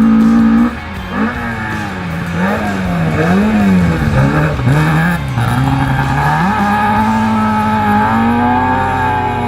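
Toyota RA40 Celica rally car's engine at full effort, its revs rising and falling quickly several times through the middle, then held steady and climbing slowly near the end.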